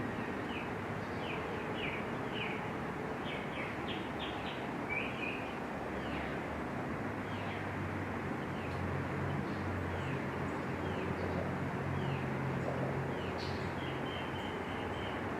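Small birds chirping: many short, downward-sliding chirps, repeated in quick runs over a steady outdoor hiss. A low hum swells in the middle and fades before the end.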